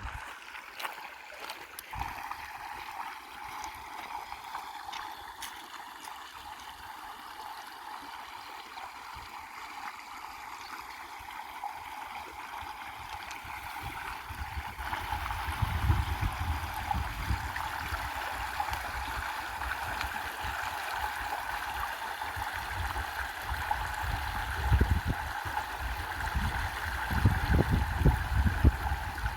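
River water flowing and gurgling steadily, with irregular low rumbles joining about halfway through and again near the end.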